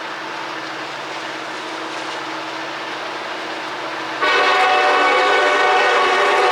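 Diesel freight train climbing a grade, its locomotives running under load. About four seconds in, a locomotive air horn starts a long blast, a chord of several steady tones that is the loudest sound.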